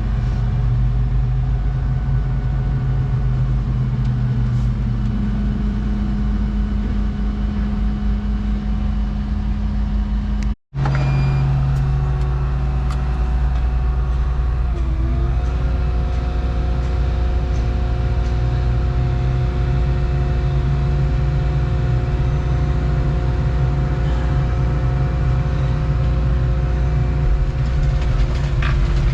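Volvo 235EL excavator's diesel engine and hydraulics running steadily, a constant engine drone with a higher whine over it. The sound cuts out for a moment about ten seconds in, and some of the tones dip briefly and then settle a few seconds later.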